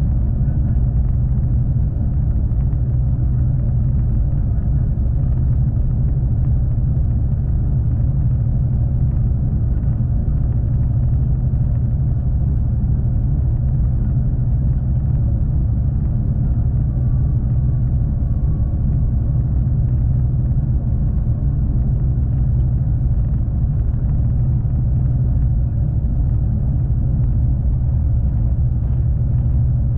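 V/Line passenger train running at speed: a steady, loud low rumble of wheels on rail and running gear, heard from inside the carriage.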